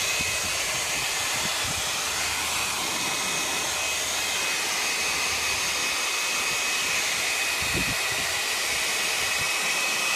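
Handheld hair dryer running steadily, a constant blowing hiss with a faint high whine, blowing hot air on a cold garage door mechanism to get it working. A gust of wind buffets the microphone about eight seconds in.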